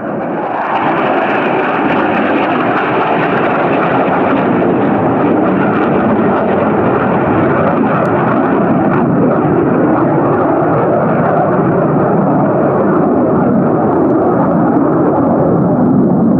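Fighter jet engine noise as a military jet flies low through a canyon. The noise swells sharply at the start, then holds loud and steady as a dense rushing roar.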